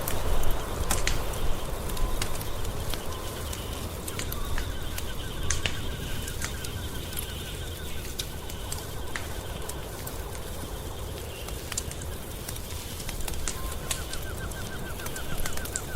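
Wood fire crackling, with scattered sharp pops over a low rumble. A fast, even ticking trill comes in a few seconds in and again near the end.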